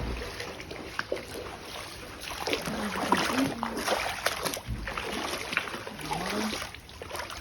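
Shallow floodwater splashing and sloshing irregularly, as someone wades through it on foot.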